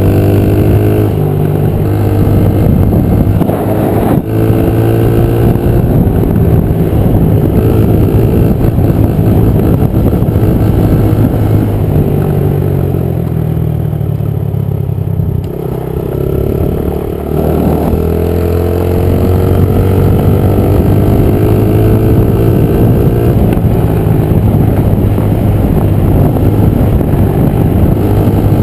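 Small Honda 50 dirt bike engine revving hard as it is ridden, its pitch climbing again and again as it accelerates through the gears. It eases off to a lower, softer note about halfway through, then revs up again; a single sharp knock about four seconds in.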